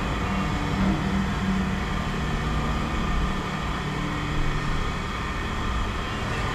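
Steady vehicle running noise: a low engine hum over an even rush.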